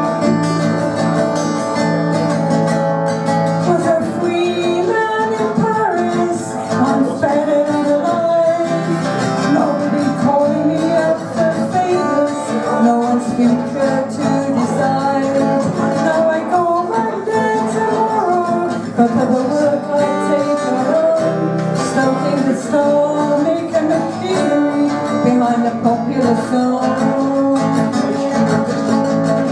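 Live acoustic duo performing a song: strummed acoustic guitar with a melody line moving over it.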